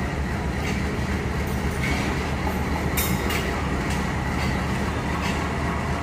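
Diesel-hauled train moving slowly through a station, with a steady low engine hum and a few irregular clacks of wheels over rail joints.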